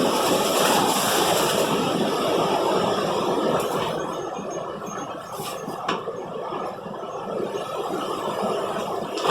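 Strong storm wind gusting through trees, a loud rushing noise that is strongest in the first few seconds and then eases a little. A few faint clicks come midway, and there is a sharp knock at the very end.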